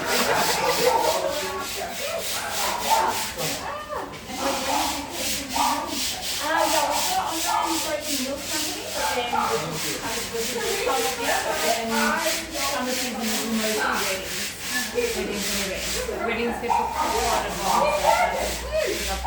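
Steady rhythmic rubbing or scraping, about four strokes a second, like sanding.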